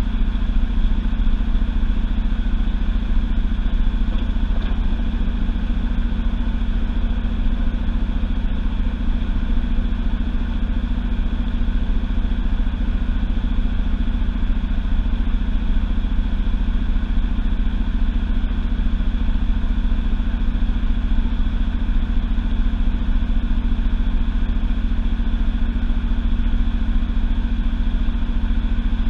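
Washing machine drum spinning fast, heard from inside the drum: a loud, steady mechanical drone with a deep rumble and a constant hum, unchanging throughout.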